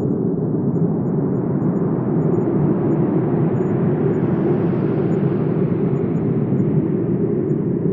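Wind blowing: a steady low rushing noise that swells a little in the middle and eases off again.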